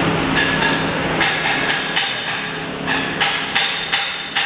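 Metal being struck over and over, about two or three irregular knocks a second, each ringing briefly at the same few pitches, over steady workshop noise.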